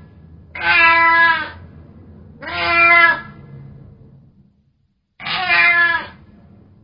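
Domestic cat meowing three times, each meow just under a second long and a couple of seconds apart.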